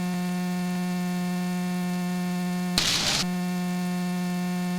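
Steady electrical hum with a stack of overtones from the aircraft's headset intercom audio, heard while the engine is stopped. A short burst of noise comes about three seconds in.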